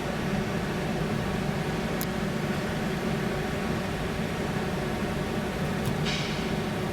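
Steady low hum and rumble of a car and the ferry's vehicle-deck machinery, with a single sharp click about two seconds in and a short hiss near the end.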